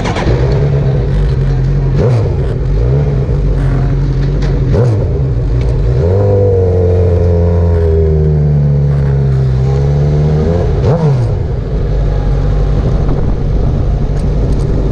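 Motorcycle engine accelerating through the gears, its pitch dipping and climbing again at several gear changes. It holds high and steady for a few seconds in the middle before dropping near the end.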